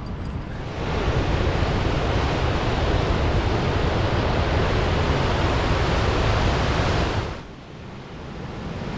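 Fast-running creek swollen with snowmelt, rushing water in high flow; the steady rush drops away suddenly about seven seconds in.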